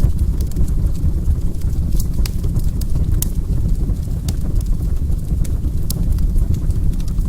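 Wood fire burning in a fireplace: a steady low rush with irregular sharp crackles and pops.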